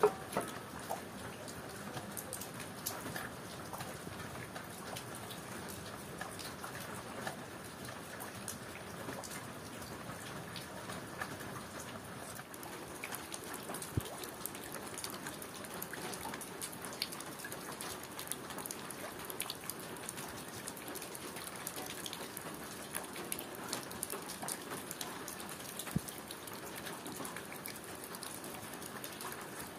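Steady rain falling, with many small drops tapping on surfaces and two sharper taps, one about halfway through and one near the end.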